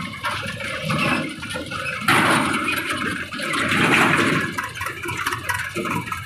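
Loose material pouring from a backhoe loader's bucket into a tractor trolley, a rushing noise that comes in swells and is loudest for about two seconds in the middle, with the machine's engine running underneath.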